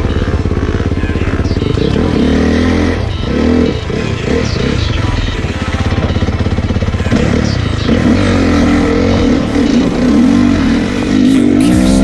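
Dirt bike engine running on the move, its pitch rising and falling as the throttle is worked over rough ground.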